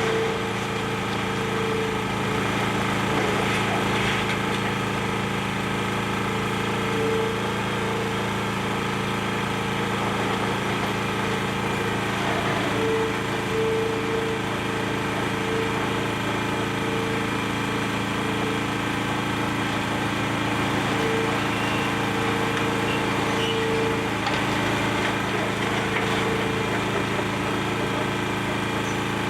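Excavator engine running steadily, with a higher hum that comes and goes several times.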